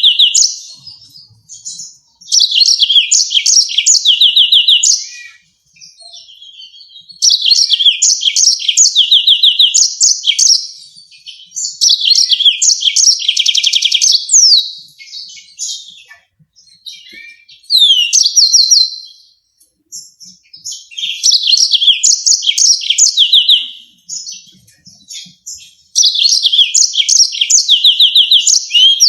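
Yellow-fronted canary singing in a string of phrases, each two to three seconds of fast, rattling trills and sharp notes, with short pauses between them.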